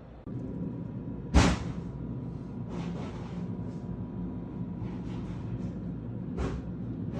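Steady low rumble of a moving vehicle, with one sharp knock about a second and a half in and a few softer noisy swells after.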